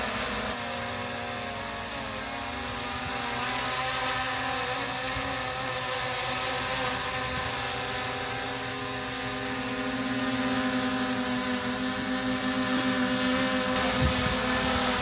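DJI Mini 3 drone's propellers and motors giving a steady, many-pitched whine, which grows a little louder and wavers in the second half.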